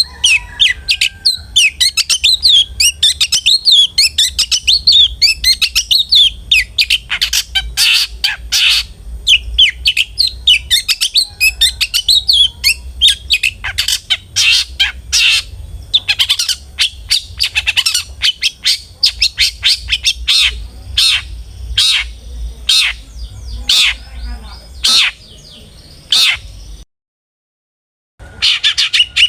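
Long-tailed shrike (cendet) calling in a fast, dense run of harsh squawks and chattering chirps, with a low hum underneath. The calling cuts off for about a second of dead silence near the end, then starts again.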